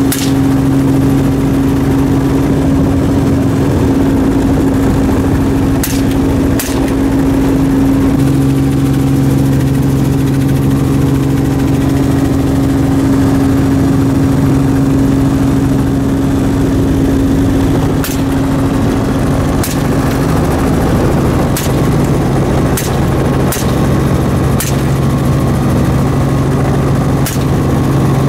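Helicopter running with a steady, loud drone, with about ten short sharp cracks scattered through it, several in quick succession near the end.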